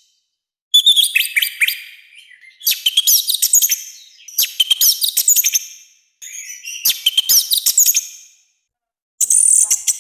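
Orange-headed thrush singing: five loud, rapid phrases of mixed whistles, chirps and harsh notes, each a second or two long, with brief pauses between them.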